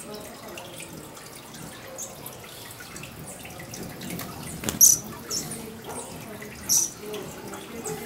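Short, sharp, high-pitched bird chips, the two loudest about five and seven seconds in, with a few fainter ones between, over a steady background hiss.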